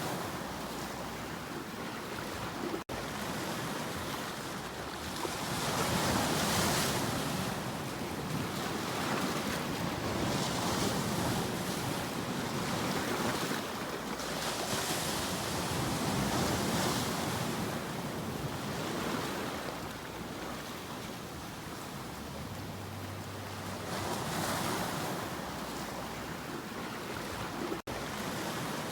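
Ocean surf: waves breaking and washing ashore in a steady rushing noise that swells and eases every few seconds. It drops out for an instant twice, once about three seconds in and once near the end.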